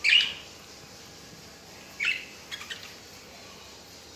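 Budgerigars chirping in short calls: a loud chirp right at the start, another about two seconds in, and two faint short ones soon after.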